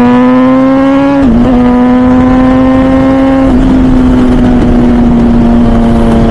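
MV Agusta Brutale 1000RR Nurburgring's 998cc inline-four, breathing through a full titanium Arrow exhaust, pulls under throttle at high revs. Its pitch climbs slowly and dips briefly twice, about a second in and three and a half seconds in, as it changes gear, with wind rush underneath.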